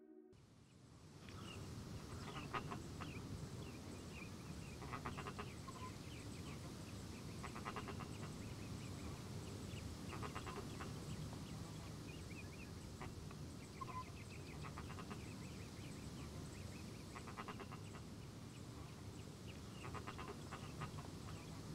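A bird calling in short runs of quick repeated notes, about every two and a half seconds, over a low steady background rumble.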